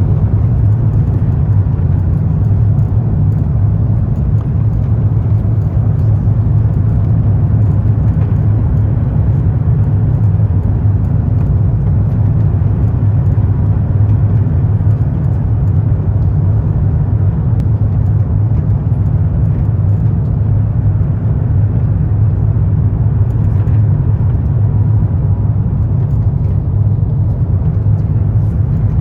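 Steady cabin noise inside an Airbus A350-900 in flight: a constant low hum of engines and airflow, unchanging throughout.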